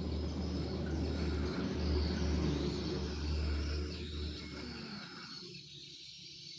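A motor vehicle running close by, its low engine hum fading away about four to five seconds in.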